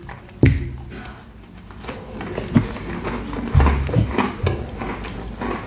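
Close-miked chewing and wet mouth sounds with scattered small clicks, and a dull thump about half a second in and again around three and a half seconds in.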